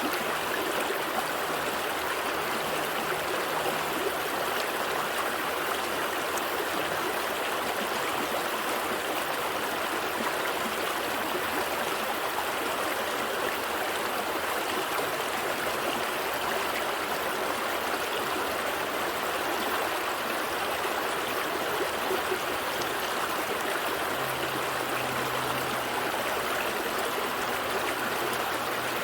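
A gentle stream flowing and trickling over stones, a steady unbroken rush of water.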